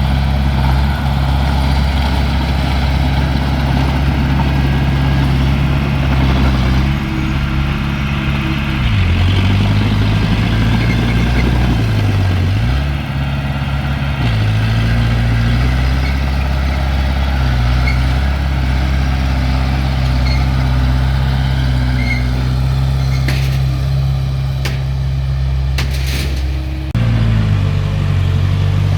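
Heavy-equipment diesel engine running steadily. Its pitch sags twice, about nine and twelve seconds in, as it bogs under load and picks up again. A few sharp clicks or knocks come near the end.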